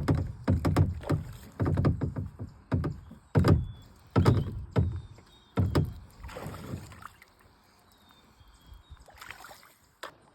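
A rapid series of hollow thumps and knocks on a kayak's hull, with a short splashy rush about six seconds in, then it goes quiet: a bass being fought and landed beside the kayak.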